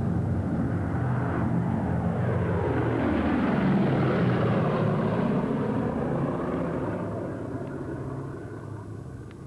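Low flyby of a Boeing B-17 Flying Fortress: its four radial piston engines drone, grow loudest about four seconds in, then drop in pitch and fade as the bomber passes and moves away.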